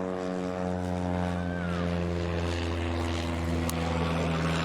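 An engine drones steadily: a low hum with many overtones, its pitch holding nearly level.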